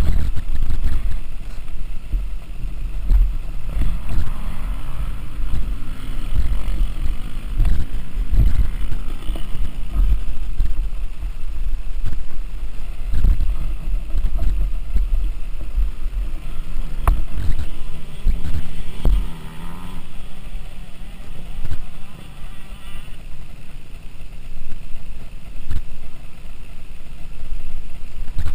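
Motocross bike engines revving, rising and falling in pitch now and then, under heavy gusty rumble on the microphone.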